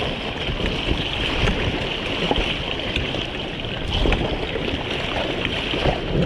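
River water rushing around a raft, with wind buffeting the microphone.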